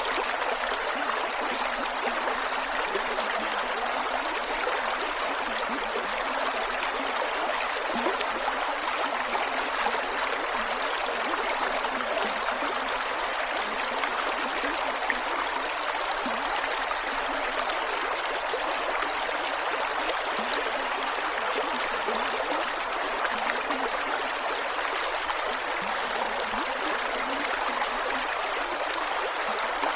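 Creek water flowing steadily over rocks, with small gurgles and trickles.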